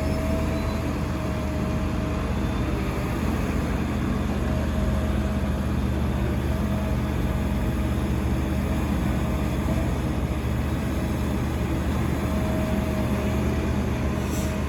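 Heavy diesel engine of a Doosan DX380 excavator running steadily while it works, with a faint whine coming and going over the drone.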